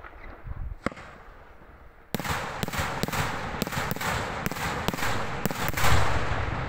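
Daytime aerial fireworks bursting overhead: a single bang about a second in, then from about two seconds a fast run of a dozen or so bangs, each trailing an echo, with the loudest near the end.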